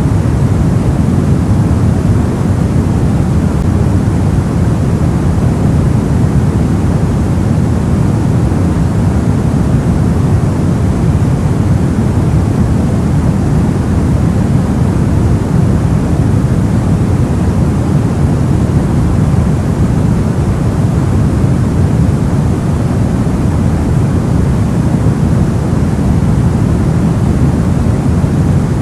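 Steady soft white noise: an unbroken, even rush with most of its weight deep and little hiss on top, never changing.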